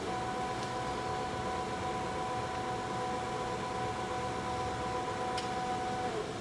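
Poreba TPK-80 engine lathe running with its two-speed motor in low speed and the spindle turning at 10 RPM: a steady whine from the drive and headstock gearing over a mechanical hum. One of the whining tones dips and drops away near the end.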